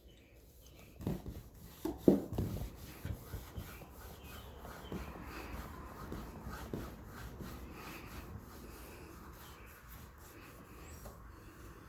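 Cloth rubbing and wiping over the pump's painted metal housing to clean off grime, with a few light knocks in the first couple of seconds.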